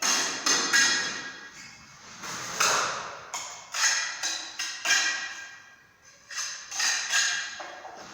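Irregular series of sharp knocks and taps, about one or two a second, several with a short ringing tail, like hard tools striking hard material.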